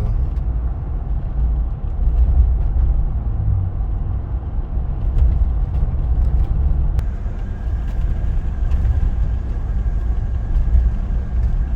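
2021 Jeep Wrangler's 3.0-litre EcoDiesel V6 and road noise heard from inside the cabin, a steady low rumble at cruising speed while the exhaust particulate filter regenerates. A faint steady high tone joins about seven seconds in.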